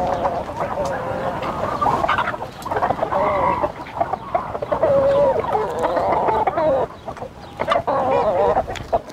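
A flock of chickens clucking, with drawn-out wavering calls coming one after another and overlapping.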